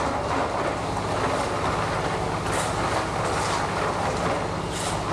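Steady engine hum and road rumble of a moving vehicle, heard from inside, with a few brief whooshes of hiss.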